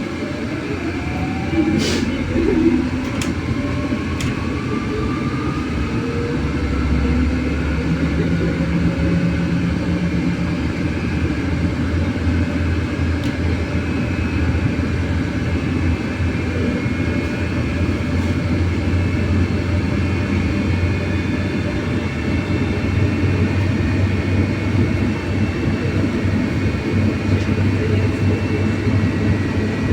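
Inside a MAZ-303E10 battery-electric bus as it pulls away from a stop: the electric traction drive's whine rises in pitch over the first several seconds while it accelerates, over steady road and cabin rumble. A couple of sharp clicks about two seconds in.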